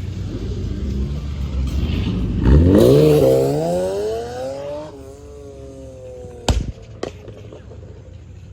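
A car engine revs hard as the car accelerates, its pitch climbing steeply and then dropping back and fading as it pulls away. About a second later come two sharp bangs, roughly half a second apart.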